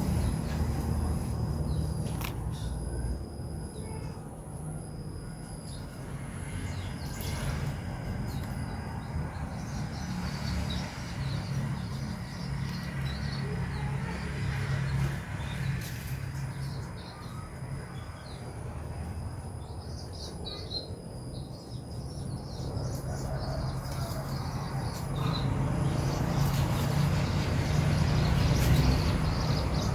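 Low rumbling background noise with scattered faint bird chirps and a thin, steady high-pitched whine above it.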